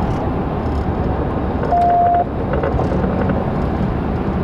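Steady engine and road rumble of a police patrol car driving, heard inside the cabin. About two seconds in, one short, clear high beep sounds.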